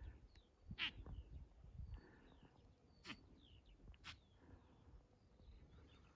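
Faint small-bird chirps and short calls, with a low wind rumble in the first two seconds and three sharp clicks.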